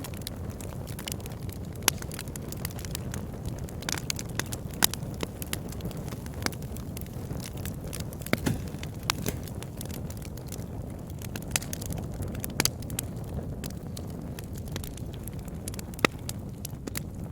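Wood fire burning in a fireplace: a steady low rumble of flames with irregular sharp crackles and pops, a few louder pops standing out.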